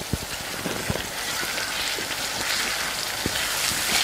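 Onion paste and ginger-garlic paste frying in hot oil: a steady sizzle with scattered crackles and pops, growing a little louder toward the end.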